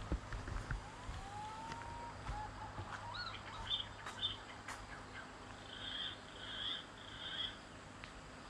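Wild bird calls: one whistle that rises and then holds its pitch, followed by short higher notes and then three repeated notes near the end, with a few sharp clicks in between.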